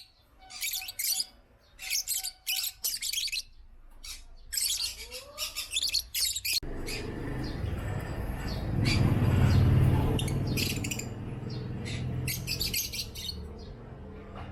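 African lovebirds chirping in quick clusters of sharp, high calls. About halfway through, a broad rumbling noise comes in and swells under the chirps, which carry on above it.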